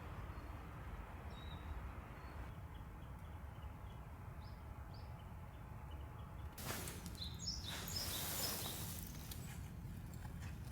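Outdoor ambience: a steady low rumble, with a few faint, short bird chirps in the first half. About six seconds in, a wash of rustling noise rises and lasts about three seconds.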